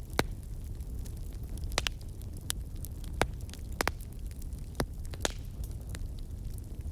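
Wood fire in a fireplace crackling, with a steady low rumble of flames and irregular sharp pops and snaps, several of them louder than the rest.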